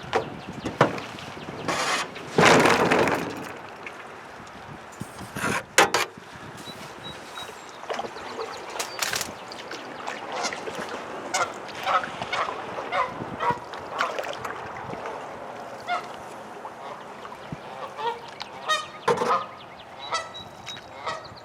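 Waterfowl honking over and over in short calls. In the first few seconds there are a few sharp knocks and a loud rushing burst.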